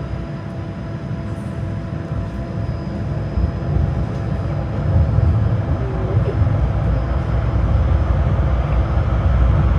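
Tram running between stops, heard from inside the passenger car: a low rumble of wheels on rails that grows louder from about three seconds in, with a faint steady whine above it.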